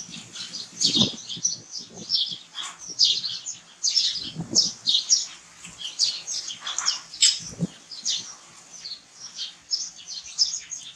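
Small birds chirping rapidly and continuously in the background, with a few brief lower sounds about a second in, midway and near the end.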